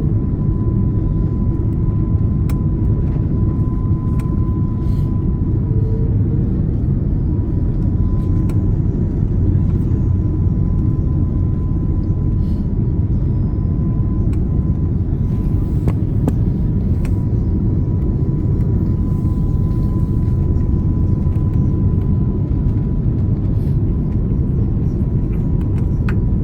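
Steady cabin noise inside an Airbus A330 airliner: an even, deep rumble of the engines and airflow, with a thin constant whine above it and a few faint clicks.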